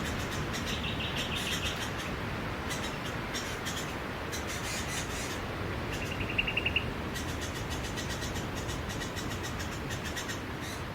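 Steady wash of sea surf, with small birds chirping: a short rapid trill about a second in, another about six seconds in, and faint high chirps scattered throughout.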